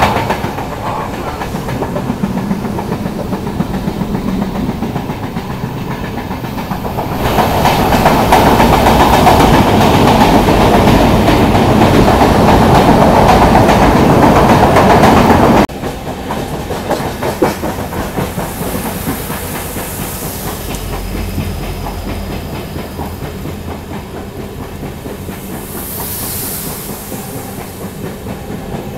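Passenger train running, heard from the open doorway of a moving coach: wheels clattering over the rails with a steady rush of running noise. It grows louder for several seconds in the middle, then drops suddenly about halfway through and carries on at a lower level.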